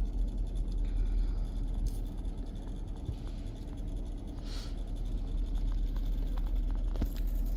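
Steady low rumble inside a car cabin, with a few soft clicks and rubbing sounds about two and four and a half seconds in.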